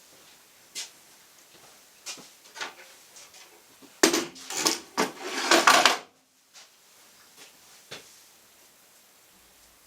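A few scattered knocks and clicks, then a loud burst of clattering and rattling of hard objects about four seconds in, lasting about two seconds, and a couple of faint knocks after it.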